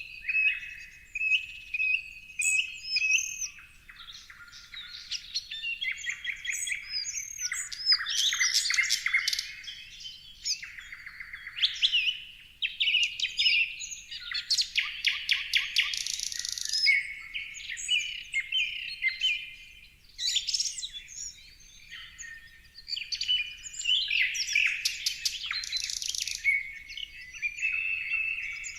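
Several birds singing and chirping at once, a dense mix of overlapping whistles, rapid trills and quick rising and falling chirps that comes and goes in loudness.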